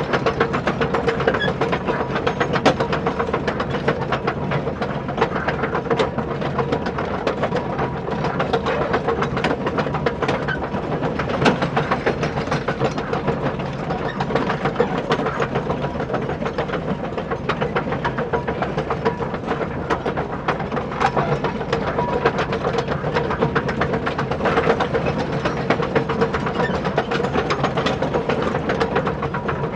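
Small electric motor and plastic gearing of an RC construction toy running steadily: a constant whine over a dense, rapid clatter.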